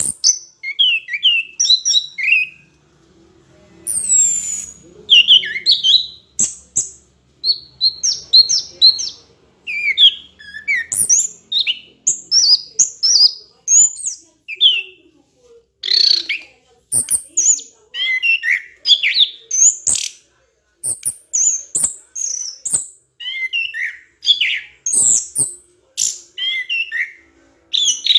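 Bird chirping: a fast, almost unbroken run of short high chirps and whistled notes.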